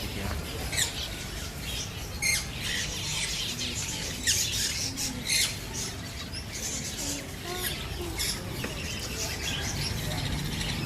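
Many ornamental pet birds chirping and squawking together, with several sharp, loud calls standing out in the first half, over a steady low hum.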